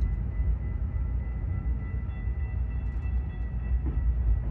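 Passenger train moving off, heard from aboard: a steady low rumble with a faint steady high whine.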